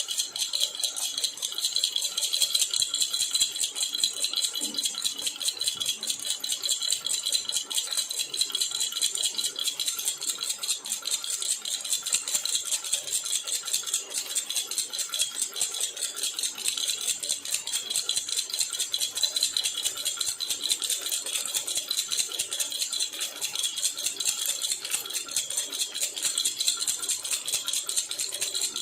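Jhunjhuna baby rattle shaken continuously in a fast, even rhythm, giving a bright, steady jingle.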